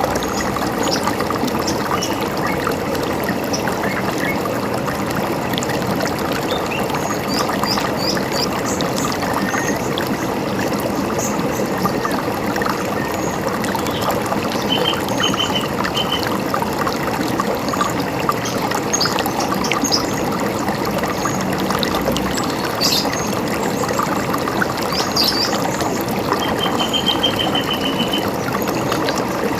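River water running steadily, with small birds chirping now and then above it: scattered short high chirps, and a quick trill of repeated notes twice, the second near the end.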